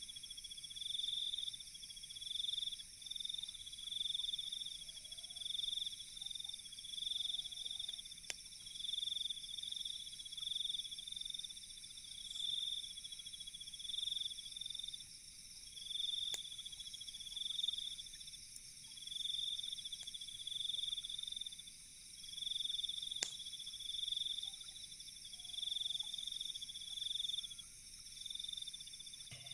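Night chorus of calling insects: a trill that swells and fades about once a second over a steady high buzzing. Three single sharp pops stand out, well apart.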